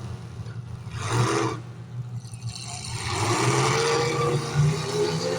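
Demolition derby cars' engines revving hard under full throttle, with a short rev about a second in and a longer, building rev from about halfway through.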